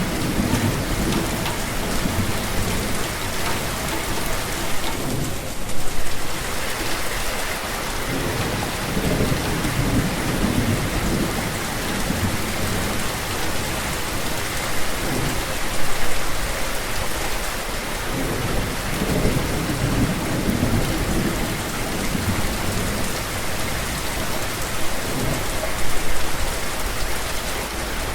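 Steady heavy rain falling on surfaces, with low rumbles that swell and fade. Brief louder surges come about every ten seconds.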